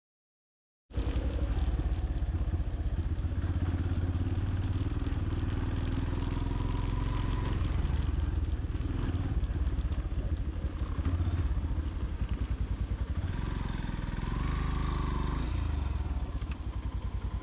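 Motorcycle engine running steadily while riding, coming in about a second in after a moment of silence.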